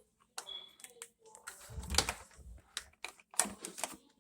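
Scattered light clicks and knocks from handling, with a duller thump about two seconds in.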